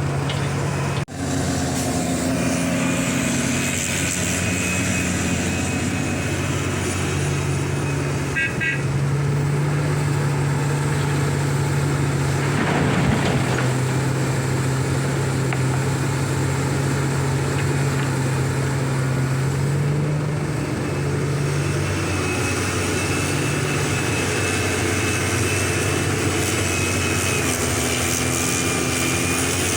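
Large diesel engine of a Liebherr 984 hydraulic excavator running under load while it loads trucks, its pitch rising and falling as it works. A brief dropout comes about a second in, and a short run of high beeps about eight seconds in.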